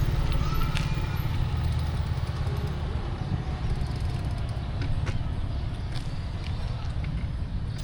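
City street traffic heard from a moving bicycle: motorbike and car engines running and passing, over a steady low rumble, with a few faint clicks.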